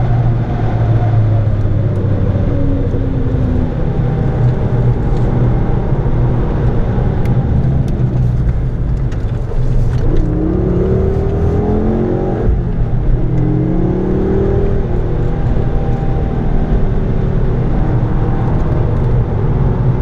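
Ford Focus ST engine under hard track driving, heard from inside the cabin: a steady, loud drone whose pitch rises about halfway through, breaks briefly and rises again as the car pulls out of a bend.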